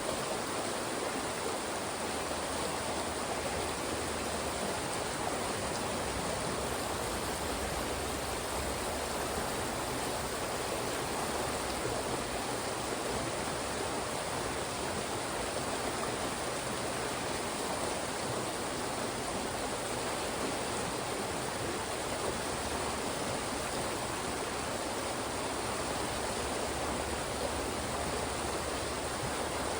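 Fast-moving stream rushing and splashing over rocks in a steady, unbroken flow.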